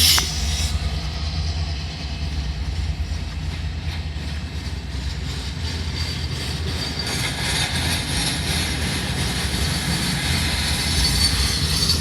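Freight train rolling past: a steady low rumble of cars on the rails, with a high hissing wheel noise building from about halfway through.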